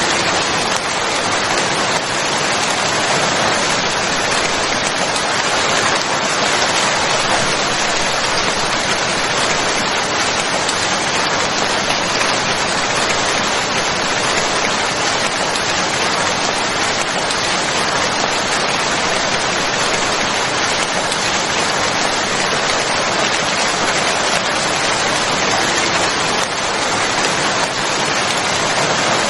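Steady, dense rainfall: an even hiss of rain with no breaks.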